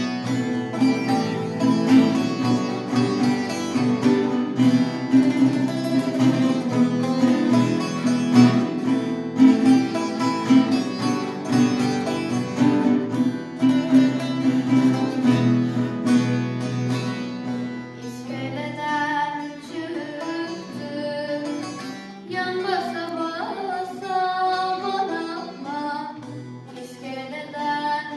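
Acoustic guitar and bağlama playing a Turkish folk song (türkü) together. About two-thirds of the way through the playing drops in level and a wavering melody line comes to the fore.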